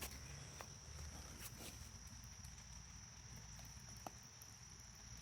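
Quiet rain: scattered faint drips of raindrops, under a steady high-pitched trill.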